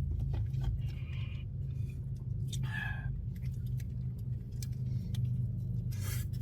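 Steady low hum of an idling car, with scattered small clicks and two short rustles, about one and three seconds in, from eating a sandwich.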